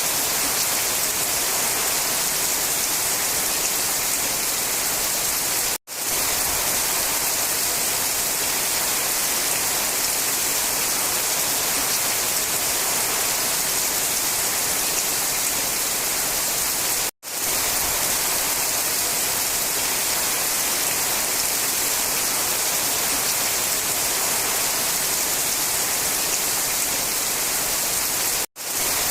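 Steady heavy rainfall, an even hiss strongest in the high end. It cuts out for an instant three times, about every eleven seconds.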